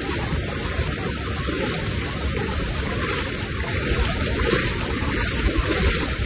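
Floodwater rushing steadily through a flooded wadi, a constant noisy rush with a low rumble underneath.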